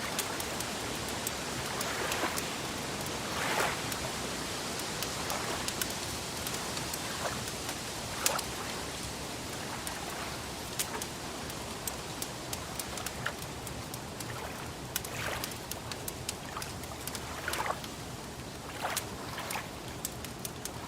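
Steady wash of lake water lapping, with scattered sharp pops and crackles from a wood fire throughout and a few soft swells of water now and then.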